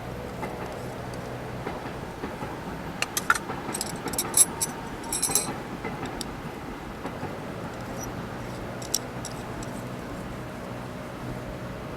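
Light metallic clinking and jingling, a quick cluster of clicks about three to five seconds in and a few more near nine seconds, over a steady low background.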